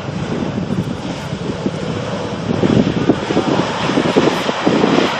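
Jet airliner's engines running as it passes on landing, with gusty wind buffeting the microphone.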